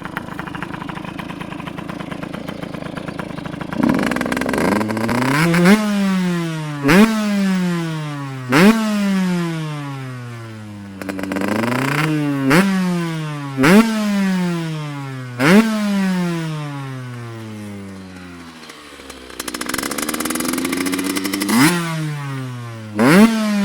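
Two-stroke engine with an Athena 80 cc cylinder kit, reed valve and Bigone-replica expansion pipe idling, then blipped again and again: the revs snap up sharply and fall slowly back each time. After a short stretch of idle near the end, it is blipped twice more.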